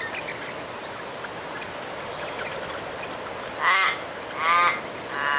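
A crow caws twice near the end, two harsh calls under a second apart, over faint chirping from small birds.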